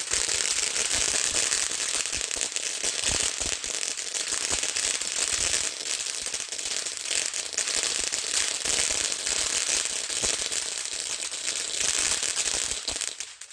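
Lightning Hero Fountain firework in its crackle finale: a dense, continuous crackling of many small pops over a hissing spray, dying away at the very end.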